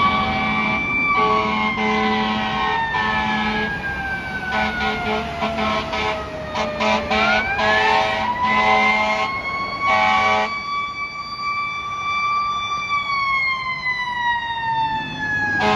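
Fire engine responding with its siren on: a slow wail that falls, winds back up about seven seconds in, holds, and falls again near the end. Over it come repeated horn blasts, which stop about ten seconds in.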